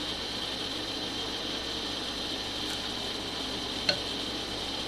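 A steady hiss, with a single sharp ringing clink of a metal spoon against a dish about four seconds in, as hot chili is served into a bowl.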